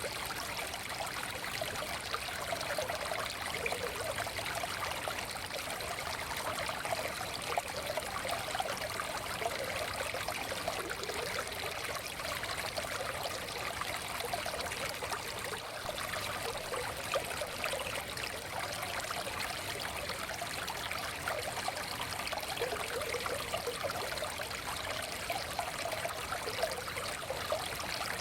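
Shallow forest stream flowing steadily over rocks, with a continuous babble and trickle of water.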